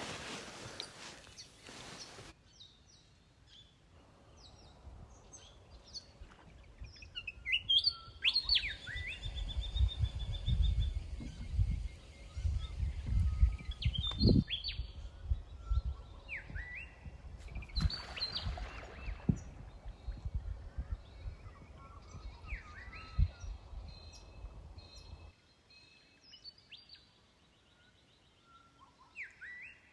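Wild birds calling, with many short chirps and quick rising and falling whistled notes scattered throughout. A low rumble runs underneath for most of it and cuts off suddenly near the end.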